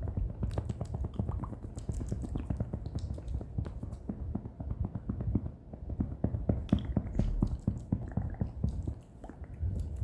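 ASMR mouth sounds: a dense, irregular run of small clicks and smacks from the lips and tongue, several a second.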